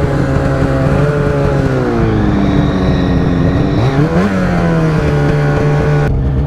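Polaris Boost snowmobile's turbocharged two-stroke engine running under throttle on a descent, its pitch easing down over the first few seconds, then dipping and climbing again about four seconds in. A faint high whine sits over it in the middle.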